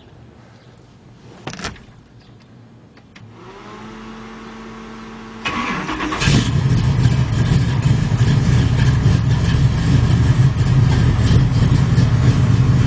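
A single click, then a whine spinning up, then the naturally aspirated 572 cubic-inch big-block V8 catches about five and a half seconds in, flares briefly and settles into a loud, steady idle through its dual 3-inch exhaust. It is a cold start of the engine.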